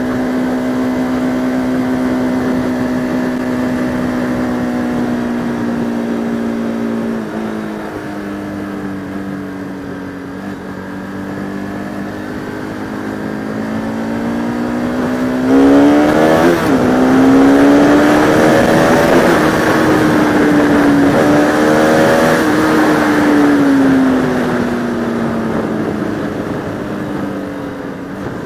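Motorcycle's single-cylinder engine under way, heard from the rider's helmet with wind rushing over the microphone. It holds steady revs, then about halfway through it is opened up hard to pass slower cars, the pitch climbing through several quick gear changes with louder wind, before easing off near the end.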